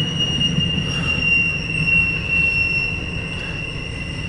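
Intermodal freight train's steel wheels squealing on the rail, one steady high-pitched tone held over the low rumble of the passing cars.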